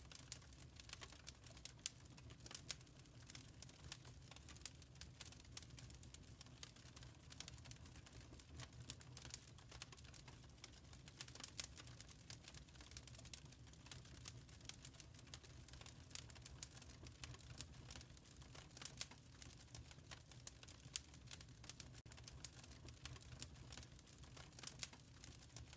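Wood fire in a fireplace crackling softly: irregular small pops and snaps, several a second, over a low steady rumble.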